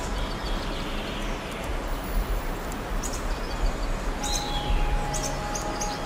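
Small songbirds chirping and singing in short, high calls, thickest in the second half, over a steady rushing background noise.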